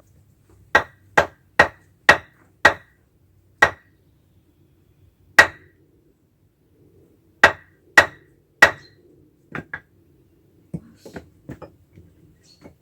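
Firewood being split by hand: ten hard blows of a splitting tool on logs, each with a short ringing tone. The first five come quickly, about two a second, then the blows space out, and lighter knocks and clatter follow near the end.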